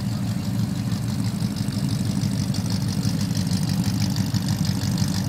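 Classic American muscle car's V8 engine idling steadily, a low, even exhaust rumble heard close behind the car.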